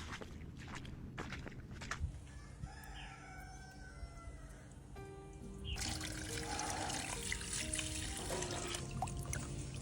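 Footsteps for about two seconds, then a faint rooster crow, then water running from a tap into a sink, starting about six seconds in, over background music.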